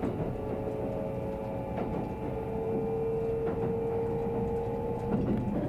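Kintetsu 50000-series Shimakaze express train running, a steady rumble with several even motor tones; one of them swells louder from about two seconds in and fades near the end.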